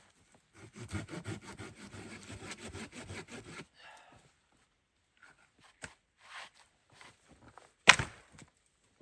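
Wood being sawn by hand in a quick run of rasping strokes for about three seconds, followed by scattered light knocks and one loud, sharp crack of wood near the end.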